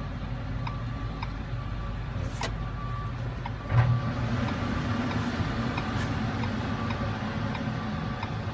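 Diesel engine of a CAT 323 excavator running steadily at idle, with faint short beeps repeating at an even pace and a brief low thump about four seconds in.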